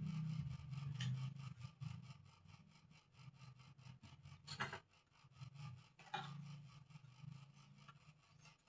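Bird-cage parts being smoothed by hand: repeated rubbing, rasping strokes, with two sharper scrapes about halfway through and about two-thirds of the way in.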